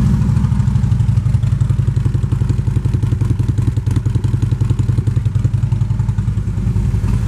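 A 2016 Harley-Davidson Road Glide Ultra's 103 cubic inch V-twin idling through Vance & Hines aftermarket exhaust pipes, loud and steady with an even pulsing rhythm.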